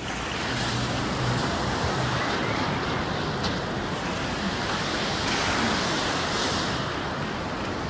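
Steady rushing noise of moving water, with wind buffeting the microphone.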